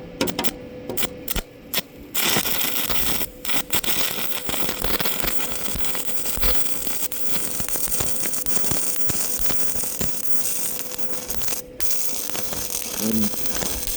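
Stick-welding arc: the electrode stutters through several brief strikes at a low amperage setting, which it doesn't like lighting up at, then catches about two seconds in. It holds a steady crackling arc as a bead is run, with a brief break near the end.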